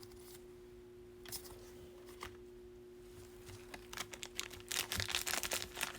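Trading cards being handled and flipped through by hand: a few soft clicks and rustles, growing into quicker, busier card handling over the last two seconds, over a faint steady hum.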